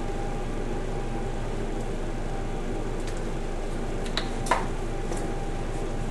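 Steady fan-like noise, with two light clicks about four seconds in.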